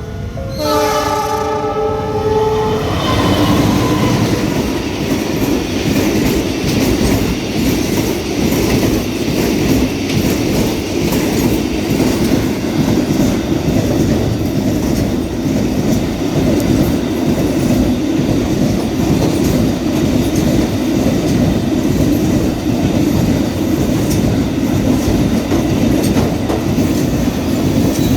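A train's horn sounds a steady chord of several tones for about three seconds. Then the train runs on along the track, with a loud, even rumble and the clickety-clack of its wheels.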